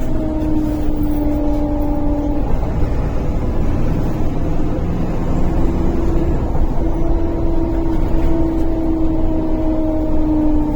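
MAZ-103 city bus heard from inside while driving: steady engine and road rumble with a driveline whine that fades about two seconds in and comes back around five seconds in, sinking slightly in pitch.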